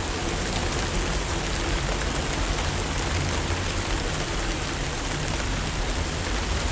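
Steady rain falling, with a dense patter of drops striking the umbrella held over the microphone.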